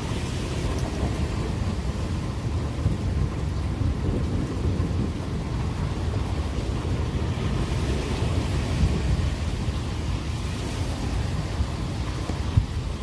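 Thunder rumbling on and on through heavy rain in a severe thunderstorm, a dense low rumble that holds steady for the whole stretch.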